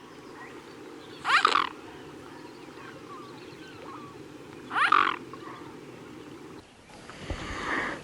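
Two short, high, rising animal calls about three and a half seconds apart over a steady background hum, then a different, lower animal sound near the end.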